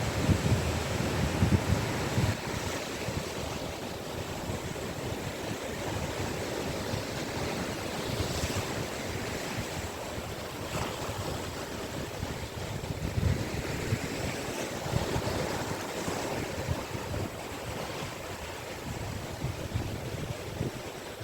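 Caspian Sea waves breaking and washing onto a beach, a continuous surf wash that swells in repeated surges a few seconds apart.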